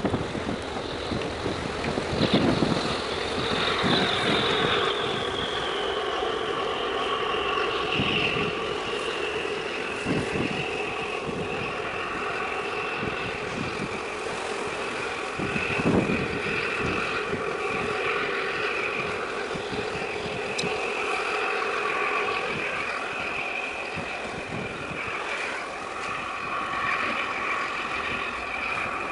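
Steady mechanical hum with a high whine, the whine sliding down a little in pitch over the first several seconds, with wind gusting on the microphone.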